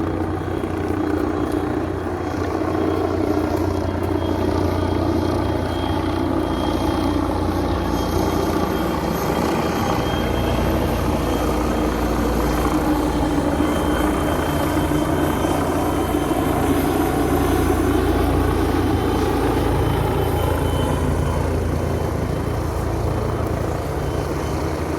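A steady engine drone, its pitch slowly bending up and down in the middle.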